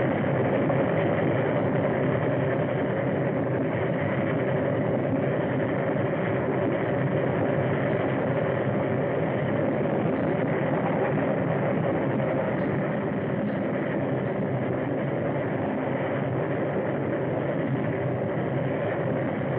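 A train running: a steady, unbroken noise with a faint low hum, through the narrow sound of an early film soundtrack.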